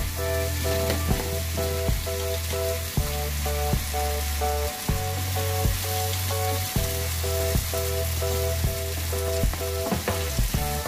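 Ground meat and tomato sauce sizzling in a frying pan as a wooden spoon stirs it. Background music with a steady beat and repeating chords plays over it.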